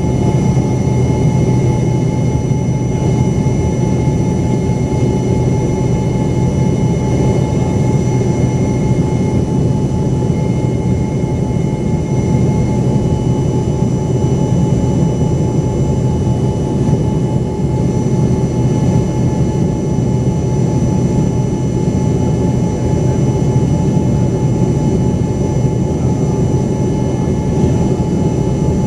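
Cabin noise of an Embraer ERJ-135's rear-mounted Rolls-Royce AE 3007 turbofan engines running steadily: a loud, even rumble with a few constant thin whining tones above it.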